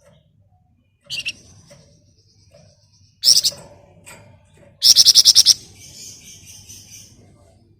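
A Flamboyan songbird singing in sharp, high chirps, then a fast, loud rattling burst of about eight notes in half a second a little before midway through, trailing off into softer warbling. This is the rapid chattering song that keepers call 'ngebren'.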